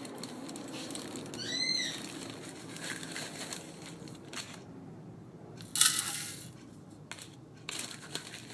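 A cockatiel gives one short chirp about a second and a half in, amid crinkling and rustling handling noises; the loudest is a burst of crinkling about six seconds in, followed by a few clicks.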